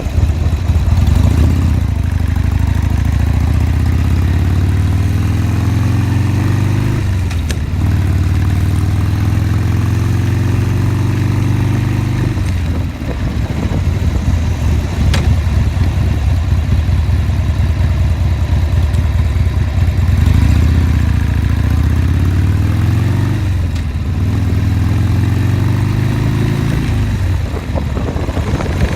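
Motorcycle engine under way, its note climbing in pitch and then dropping sharply at each gear change. Two such climbs come in the first twelve seconds, then a steadier low note for several seconds, then two more climbs and drops near the end.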